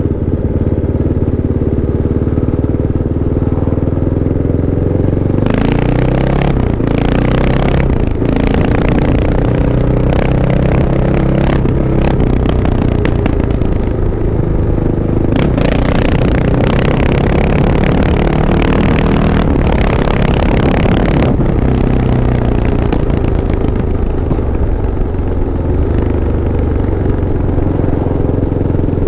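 Kawasaki KLX650 single-cylinder four-stroke motorcycle engine running, steady at first. From about five seconds in it gets louder and rougher, with the engine speed rising and falling. After about twenty seconds it settles back to a steadier run.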